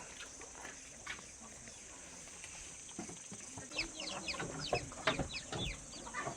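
Chickens clucking and calling, with a busy run of short, quick, falling calls starting a little past halfway.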